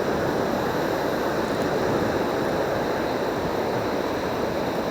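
Steady rushing of surf washing on the beach, mixed with wind.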